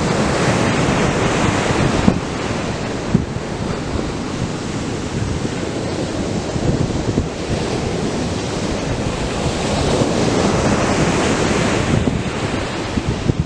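Atlantic surf breaking on a sandy beach: a continuous rushing wash of waves that swells louder at the start and again about ten seconds in.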